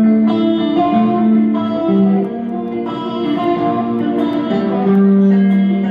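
A live rock band's guitar playing a slow song intro with long held notes.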